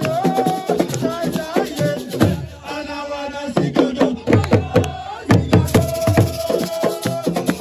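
Assiko music: fast drum strikes with a singing voice holding long notes over them.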